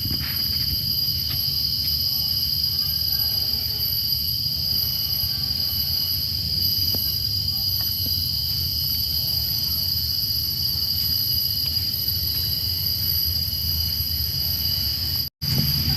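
Steady, high-pitched drone of an insect chorus, with a low rumble beneath it. The sound cuts out completely for a moment near the end.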